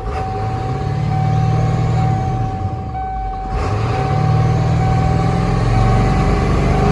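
Ford 7.3-litre Power Stroke turbo-diesel V8 revved twice, each time rising and then falling back toward idle, the second rev held longer. A steady high-pitched tone sounds throughout.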